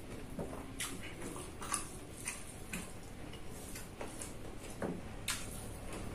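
Close-miked eating sounds: chewing of rice and fu yung hai with irregular wet mouth clicks and smacks, roughly two a second. Fingers also pick rice off a tray.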